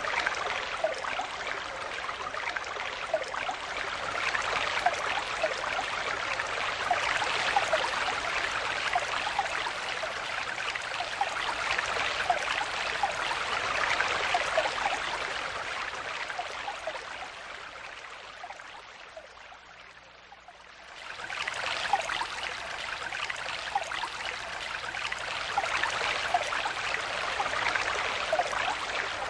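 Stream water flowing and bubbling steadily, with many small gurgles and plinks. About two-thirds of the way in, the sound fades down over a few seconds, then comes back suddenly at full level, like an edit or loop seam.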